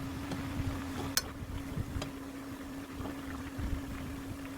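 Pot of water at a rolling boil with burdock strips blanching in it, bubbling steadily under a constant low hum, with a few sharp clicks.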